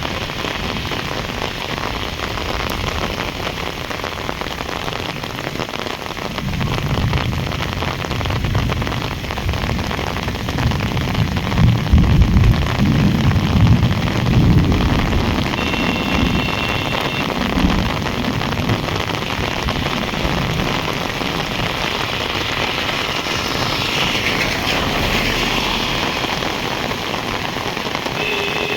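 Heavy rain falling steadily, with a low rumble swelling about six seconds in and dying away by the middle.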